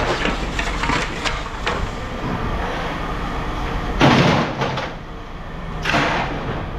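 Pieces of scrap metal being handled and thrown down, with two loud impacts about four and six seconds in and lighter clicks before them, over a steady low machinery hum.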